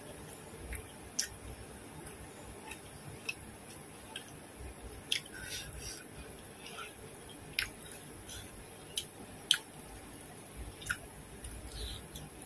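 Close-up mouth sounds of eating grilled poultry with the fingers: wet chewing, with short sharp smacks and clicks scattered irregularly, the loudest about three-quarters of the way through.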